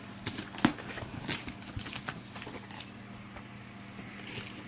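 Hands working at a heavily taped cardboard box: scattered clicks, taps and rustles, with one sharp knock about half a second in, then quieter handling.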